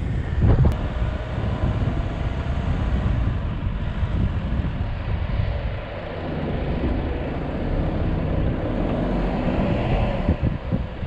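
A 4x4's engine running as it drives through soft desert sand, a steady low rumble with wind noise on the hood-mounted microphone.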